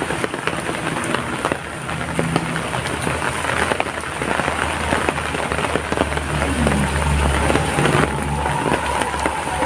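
Heavy rain falling, a dense steady patter of drops. In the last few seconds a low rumble and a steady whine come in under the rain.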